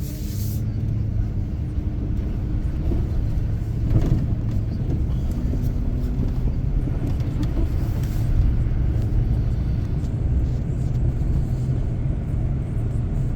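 Steady low rumble of a car driving, heard from inside the cabin: engine and tyre noise with a faint steady engine hum, and a single brief knock about four seconds in.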